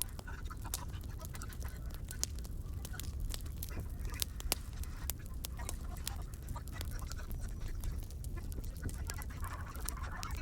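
Firewood burning in a fireplace, crackling with many small irregular pops.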